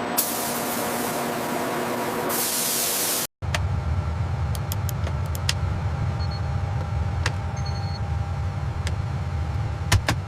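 Steady hiss of a paint spray gun that cuts off abruptly about three seconds in. Then a low steady machine hum with scattered sharp clicks.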